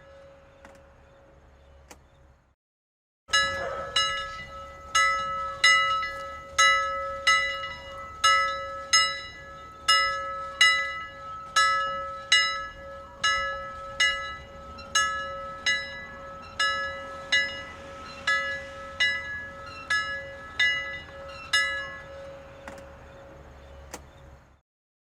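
A bell struck over and over, about two strikes a second, each strike ringing on into the next; it starts after a brief silence and dies away near the end.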